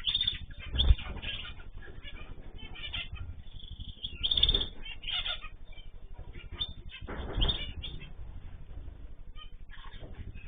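Pet birds fluttering their wings in three short bursts, about a second, four and a half seconds and seven and a half seconds in, with short chirps in between.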